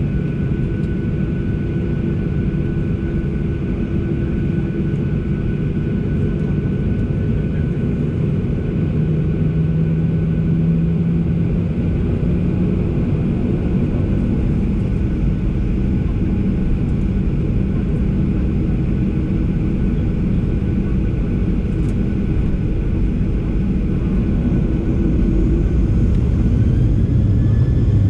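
Boeing 737 heard from inside the passenger cabin: a steady, loud rumble of jet engines and airframe. Near the end it grows louder and a faint rising whine comes in, as the engines spool up for takeoff.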